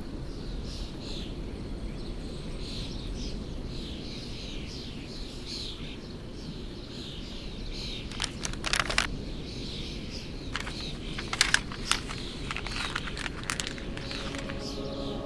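Birds chirping again and again over a steady low rumble of background noise, with a few sharp clicks or knocks about halfway through and again a few seconds later.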